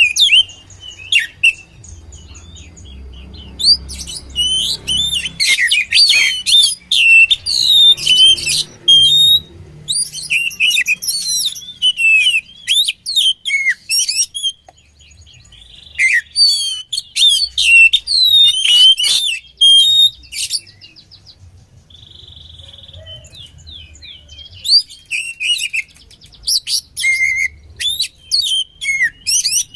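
Oriental magpie-robin (kacer) singing a loud, varied song of quick chirps, slurred whistles and trills in bursts separated by short pauses, with one brief held whistle about two-thirds of the way through.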